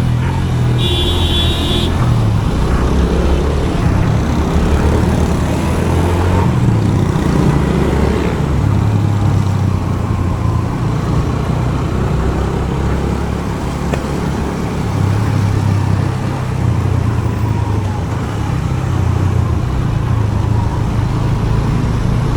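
Motorcycle engine running through city traffic, the drone of the bike and the surrounding vehicles rising and easing. A vehicle horn beeps briefly about a second in.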